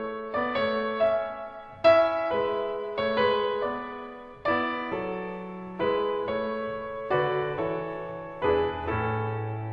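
Background music: a piano melody of single struck notes and chords, gently paced.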